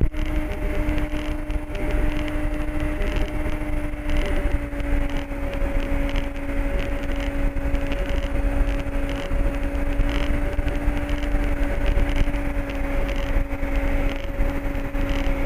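Cockpit noise of an MD3 Rider ultralight aircraft in flight: a steady engine and propeller drone with a held two-tone hum over it.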